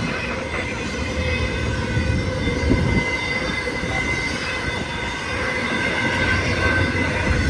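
Intermodal freight cars of a BNSF Z train rolling past: a steady heavy rumble of wheels on rail with a thin, steady high squeal from the wheels.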